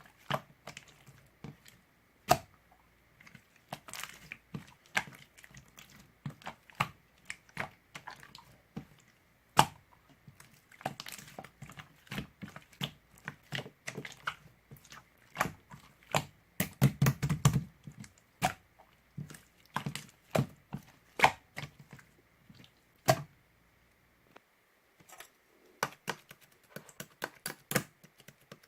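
Irregular small clicks, taps and crinkles from objects being handled close to the microphone, with a denser flurry about two-thirds of the way through.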